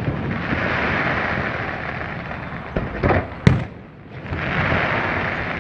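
Aerial fireworks going off: a long crackling hiss of crackling-star bursts, three sharp bangs in quick succession about three seconds in, then another swell of crackling.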